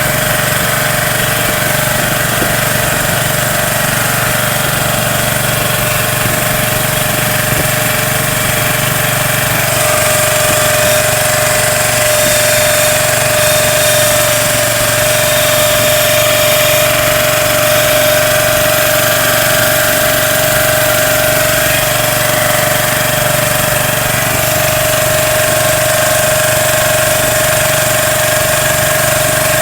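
Small boat's engine running steadily at constant speed, with a steady whine that gets a little louder about ten seconds in.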